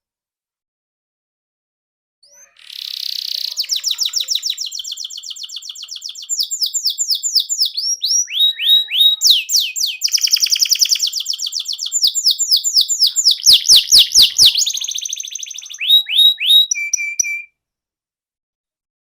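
Canary singing a long, fast song of rapid trills and rolls that starts about two seconds in and cuts off sharply near the end. A short run of sharp clicks comes under the trills about two-thirds of the way through.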